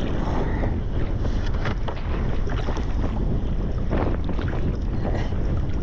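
Wind buffeting the microphone in a steady rumble, with scattered short knocks.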